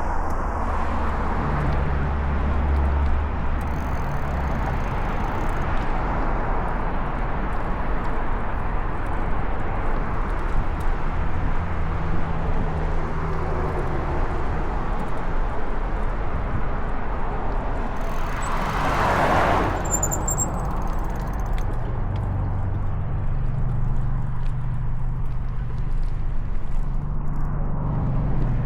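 Street traffic: car engines and tyre noise running steadily, with one vehicle passing close about two-thirds of the way through, rising and fading.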